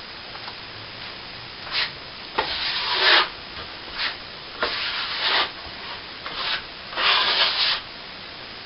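Plastering trowel scraping across setting cornice cement on a ceiling patch in about six separate strokes, some short and some about a second long: the final polishing pass.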